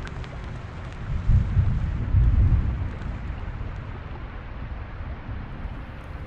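Steady rain with a deep rumble of thunder starting about a second in and fading after a second and a half.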